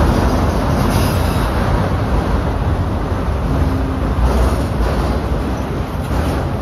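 Freight train of multilevel autorack cars rolling past at steady speed, a continuous rumble of steel wheels on the rails, with wind buffeting the microphone.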